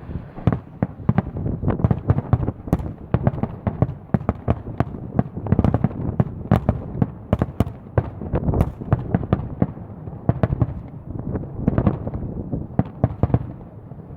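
Aerial fireworks bursting in quick succession, a dense run of sharp bangs and crackles with no let-up, with wind buffeting the microphone underneath.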